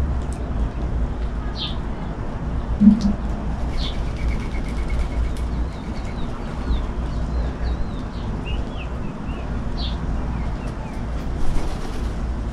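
Steady rainstorm hiss with a low rumble, over which small birds give short high chirps and, midway, a quick run of twittering song notes. One short low sound, perhaps a dove's call, comes about three seconds in.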